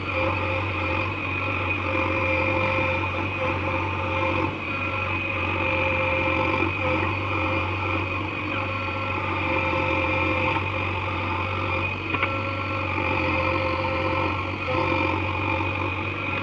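Backhoe loader's diesel engine running steadily: a continuous low hum with a steady high whine over it.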